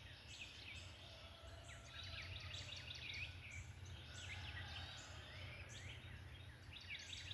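Several birds chirping and calling, many short high notes overlapping, faint, over a steady low hum.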